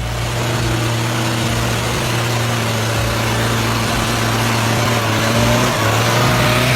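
A heavy machine's engine running steadily under load, a constant low hum under loud mechanical noise, with a wavering whine coming up over the last couple of seconds.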